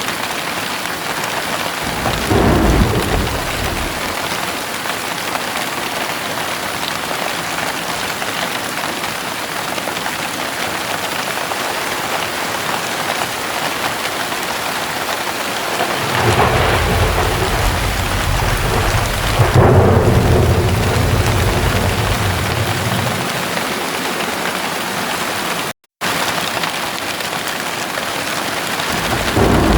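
Steady heavy rain hissing, with thunder: a short rumble about two seconds in, then a long rumble from just past the middle that is loudest about two-thirds of the way through, and another rumble beginning at the very end. The sound cuts out completely for an instant near the end.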